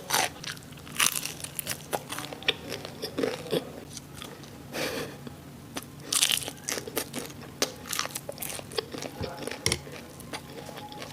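Biting and chewing crispy fried sausages and onions: irregular crunches and mouth clicks, with a few louder bursts of crunching.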